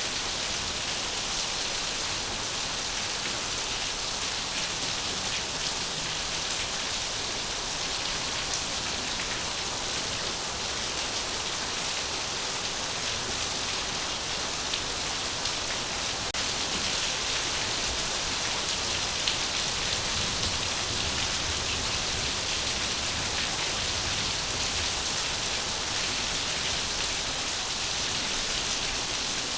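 Steady rain falling on a surface, an even hiss of many drops with no pauses, and now and then a slightly louder drop.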